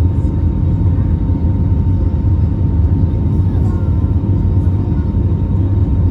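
Airbus A319 cabin noise: a steady deep rumble of engine and airflow, with a thin steady whine above it.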